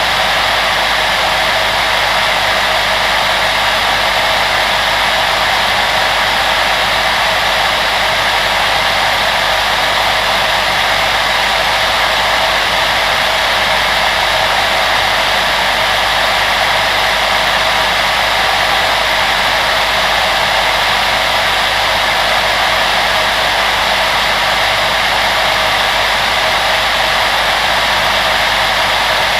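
Electric blower motor running steadily: an even, unchanging rush of fan-driven air with a faint low hum beneath it.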